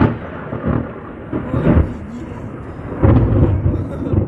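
Thunder rumbling in rolling swells after a lightning strike, loudest a little after three seconds in.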